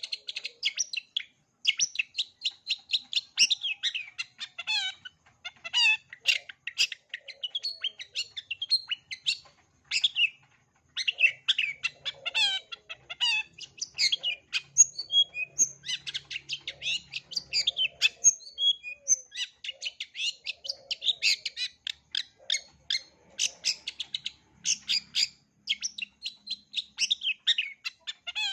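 Long-tailed shrike singing a fast, varied song of chirps, trills and whistles, including notes mimicked from other birds. The notes run almost without break, with a couple of short pauses.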